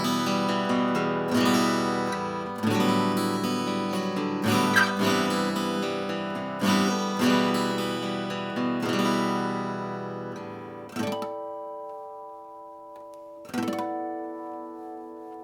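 1970s S.Yairi YD-303 acoustic guitar being strummed and picked, a run of chords for about ten seconds. After that, two single chords are struck and left to ring out and fade.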